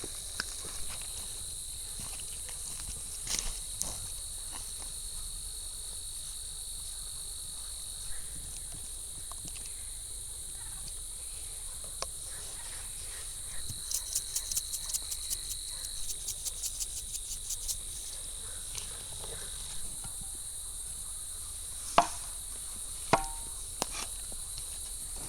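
Insects, crickets or similar, chirring steadily at a high pitch. For a few seconds in the middle a rapid, regular chirping pulses over it. Near the end come a few sharp knocks.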